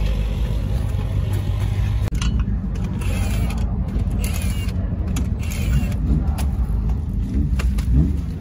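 Steady low rumble of race car engines running, with scattered clicks and knocks as a road-tyred wheel is pulled off a folkrace car's hub.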